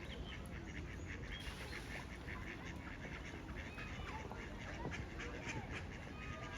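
Birds calling continuously: many short repeated calls and a few sliding ones, over a steady low background noise.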